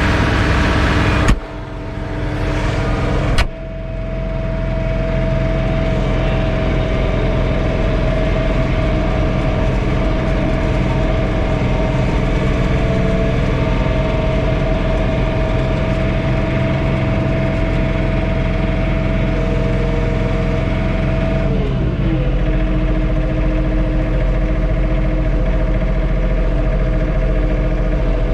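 John Deere 3046R tractor's diesel engine and snowblower running at high revs, loud and open-sounding at first through the open cab door. A thud about a second in and another about two seconds later, as the cab door shuts, leave the sound muffled by the closed cab: a steady drone with a whine. Near the end the engine note drops a little.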